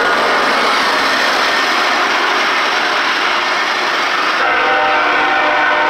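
Freight train passing close by: the rear of a BNSF GE ES44C4 diesel locomotive pair, then hopper cars and boxcars, with a steady rumble of wheels on the rails. About four and a half seconds in, steady tones at several pitches sound over the rumble.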